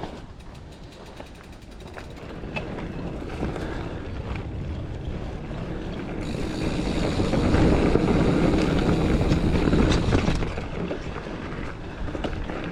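Giant Fathom mountain bike ridden over a dirt trail: tyres rolling, the bike rattling and wind buffeting the microphone. The noise builds over several seconds and is loudest about eight to ten seconds in, then eases off.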